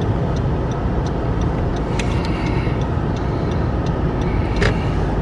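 Steady engine and tyre rumble inside a car driving slowly on a snow-covered road, with faint light ticks throughout and a short sharp click about four and a half seconds in.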